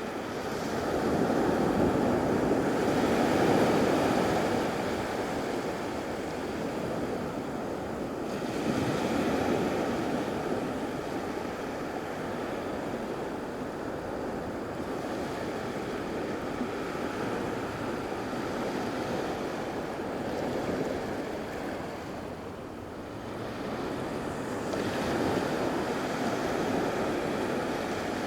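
Surf washing onto a beach, a steady wash of water that swells louder every several seconds as waves break, with some wind on the microphone.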